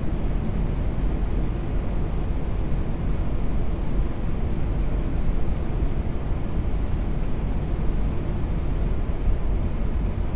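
Steady cockpit noise of an Airbus A380 on final approach with gear down and flaps full: a deep, even rush of airflow and engines.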